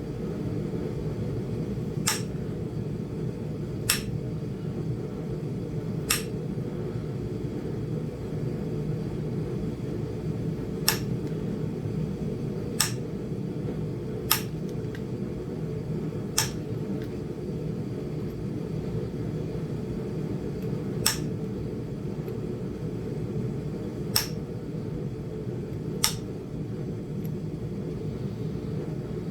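Flintknapping on a Flint Ridge chert biface: about ten sharp clicks as flakes are knocked off the stone, a couple of seconds apart with a few longer pauses, over a steady low hum.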